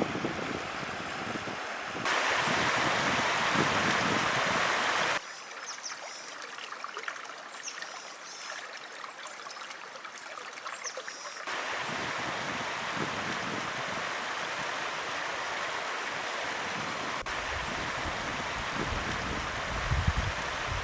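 Steady rush of a mountain stream and waterfall, louder in some stretches than others with sudden changes in level. In a quieter stretch from about five to eleven seconds, faint high chirps sound over softer water.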